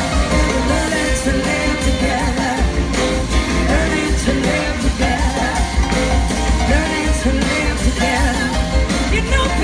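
Live rock band playing, with heavy bass and drums and a wavering lead melody line above.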